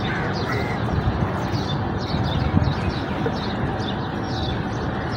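Steady outdoor background noise with small birds chirping now and then, in brief high calls.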